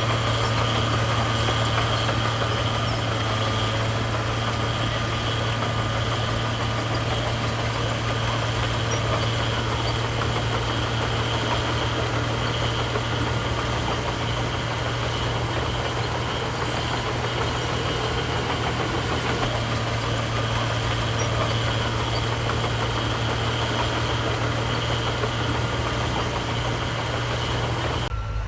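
Heavy diesel engine of earthmoving machinery running steadily at low speed, with a faint steady high whine over it. The sound drops off suddenly near the end.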